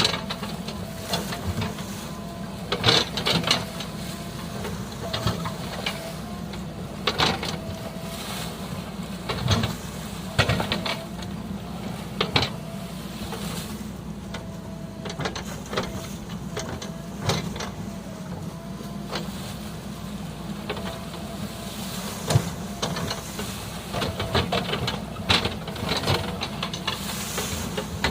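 Heavy diesel vehicle engine running steadily, with irregular sharp knocks and clatters over it.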